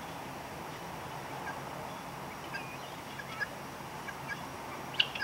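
Free-ranging poultry calling: scattered short calls over a steady low background, busier in the second half, with one louder sharp call near the end.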